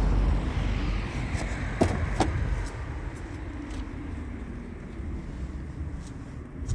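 Low, steady outdoor rumble with two sharp clicks a fraction of a second apart about two seconds in.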